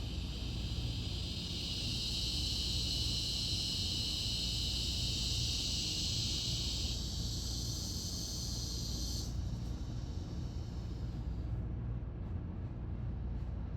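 High, steady insect buzzing, likely cicadas, that cuts off in two steps, partly about seven seconds in and the rest about two seconds later, over a low steady rumble.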